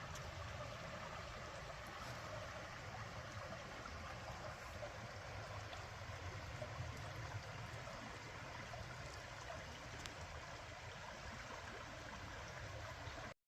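Steady rushing of running water from a stream, cutting off abruptly just before the end.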